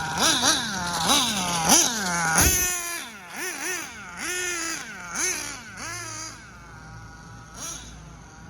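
Nitro engine of a Hobao Hyper VS RC buggy being blipped: quick revs that rise and fall back, about two a second at first, then fewer and fainter, with a sharp knock about two and a half seconds in.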